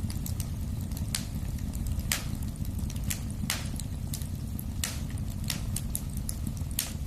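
Wood fire crackling in a fireplace: irregular sharp pops and snaps, the loudest about once a second with fainter ticks between, over a steady low rumble.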